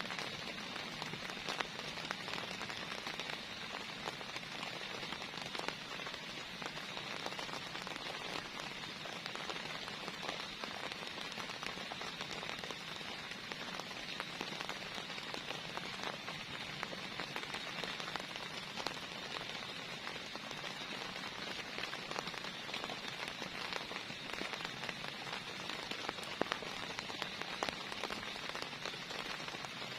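Heavy rain falling steadily, a constant hiss dotted with the patter of individual drops.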